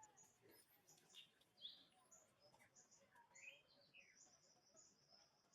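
Faint, high-pitched chirping calls: many short notes and quick gliding squeaks in irregular succession.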